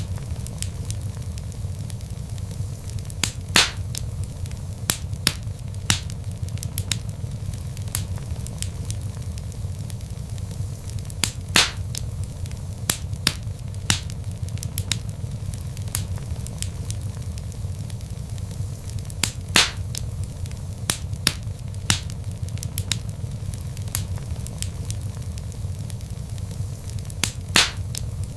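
Wood fire crackling: many small sharp snaps and a few louder pops over a steady low rumble of burning logs.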